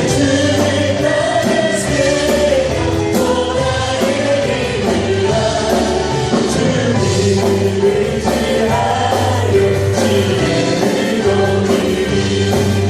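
Worship music: a group singing a praise song together over a band with bass and steady percussion.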